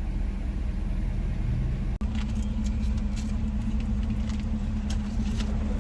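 Steady road and engine rumble inside a moving car's cabin. After a brief cut about two seconds in, a steady hum and a few scattered light clicks join it.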